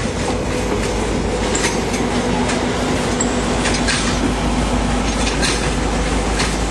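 A train rolling past on the rails as it pulls into the station, its wheels clicking over rail joints, with a few brief high squeals from the wheels.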